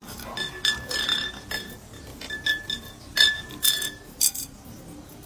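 A series of light glassy clinks, about ten in irregular succession over four seconds, each ringing briefly at the same pitch, then stopping.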